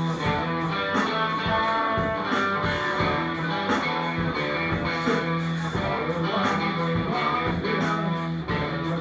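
Rock band playing an instrumental passage: electric guitar over bass and a steady drumbeat, with no vocals.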